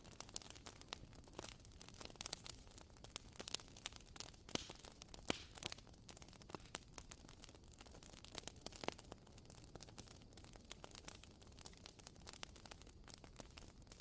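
Wooden-wick candle burning with a faint, irregular crackle of quick pops, like a small campfire.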